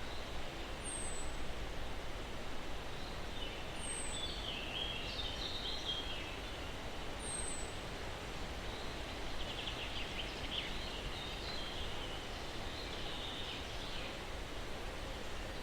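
Steady breeze rustling through pine trees with songbirds calling. A thin, high, falling whistle comes three times, a few seconds apart, in the first half, and birds twitter in two bursts, one just before and one after the middle.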